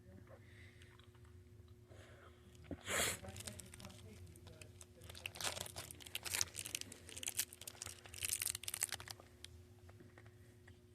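Close-up crunching and chewing of a Warheads sour hard candy: a short loud hiss about three seconds in, then a few seconds of dense, irregular crackling crunches.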